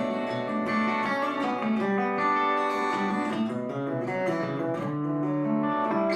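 Acoustic guitar playing an instrumental passage, picked notes and chords ringing with no singing.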